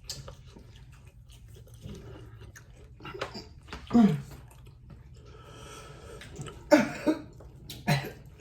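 Close-up chewing and mouth noises of someone eating spicy chicken wings, with small wet clicks throughout and a few louder sharp noises near the middle and end, one of them with a short falling pitch.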